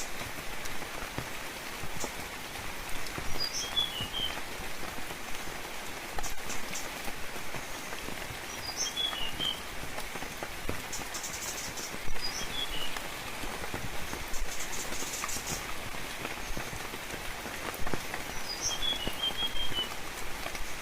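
Steady rainfall hissing, with individual drops ticking close by. A small bird repeats a short chirping phrase roughly every five seconds, and two brief buzzy trills come in the middle.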